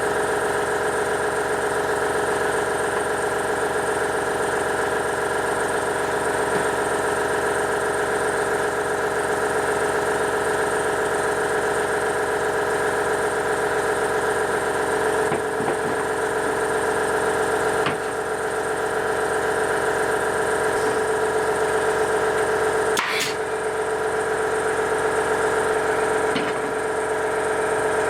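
An electric power tool running steadily at constant speed, with a few brief knocks or clicks as it works the material.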